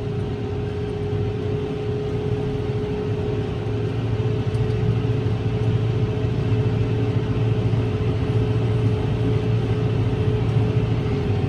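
Kubota M7-172 tractor's diesel engine running steadily, heard inside the cab, as a low drone with a steady whine above it. It grows slightly louder about four seconds in.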